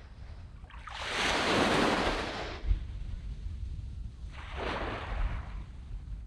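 Waves breaking and washing up a sand beach. A larger wave swells about a second in and fades by about two and a half seconds, and a smaller one follows a couple of seconds later.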